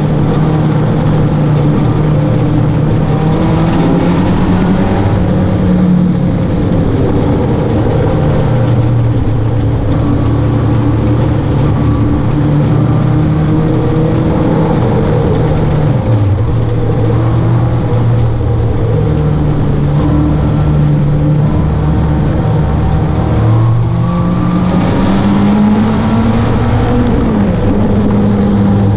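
Engine of an open-top sports roadster pulling along at road speed, its note changing with the throttle: it drops about halfway through and climbs and eases again near the end. Wind and road noise run under it.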